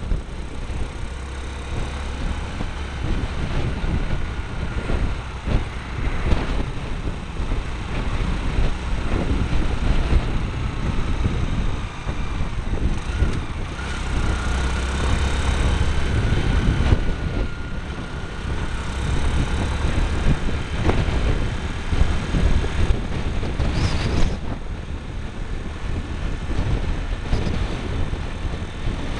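Motorbike on the move, heard through a mini camera cable-tied to the bike: a steady low rumble of engine and wind, with a faint whine that rises and falls in pitch around the middle.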